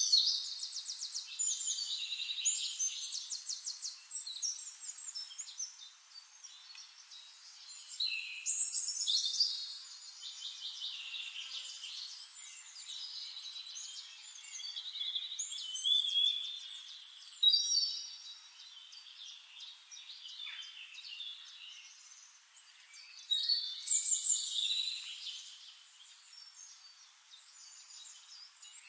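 Songbirds singing: long, varied warbling phrases with rapid trills, coming in spells every few seconds.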